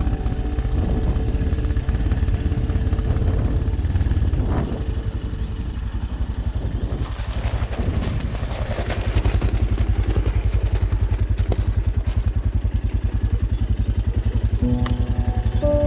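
Single-cylinder dirt-bike engine of a Shineray XY250GY-6B running with evenly spaced firing pulses, with off-road rumble and clatter over it. Background music fades out in the first few seconds and comes back near the end.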